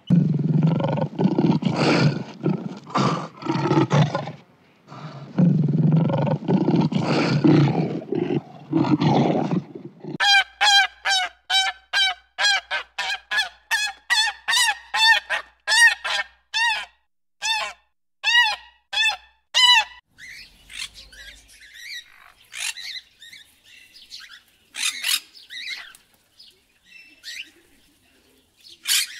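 Black swan giving a long run of repeated honking calls, about two a second, for some ten seconds. Before it come two long bouts of dense rasping sound, and after it small birds chirp faintly.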